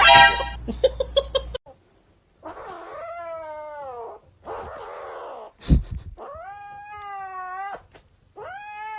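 Domestic cat yowling in a series of long drawn-out calls, one sliding down in pitch, with a short knock about halfway through.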